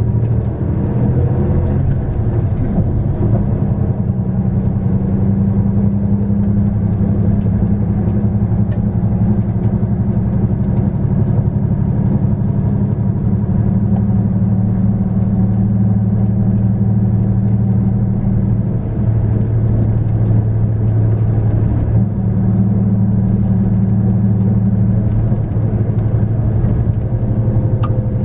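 A 2001 Hino Melpha 7 bus's diesel engine running steadily as the bus drives along, with a low drone whose pitch rises near the end as the bus picks up speed.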